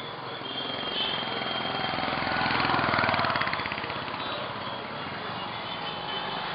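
Small engine mounted at the front of a bicycle, running with a fast, even firing beat; it picks up to a peak about three seconds in, then eases back.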